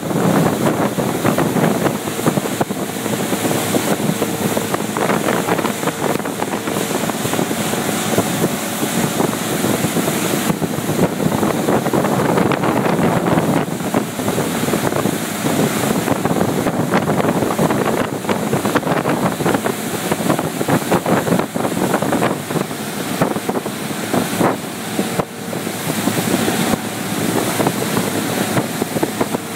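Motorboat running under way, with wind buffeting the microphone and water rushing, a steady, loud mix with a faint engine hum underneath.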